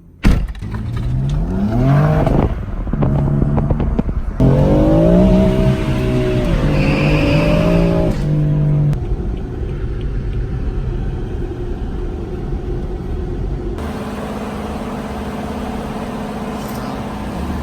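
2016 BMW M4's twin-turbo inline-six under acceleration, its pitch rising in steps through the gears over the first few seconds, then settling into a steady drone while cruising.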